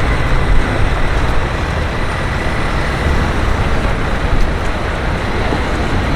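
Steady city street traffic: passing vehicles' engines and tyre noise.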